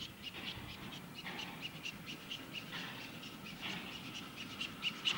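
Birds chirping: many short, high calls following one another several times a second.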